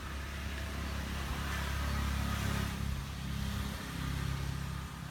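A motor engine running with a low hum that rises and falls in strength, loudest a couple of seconds in.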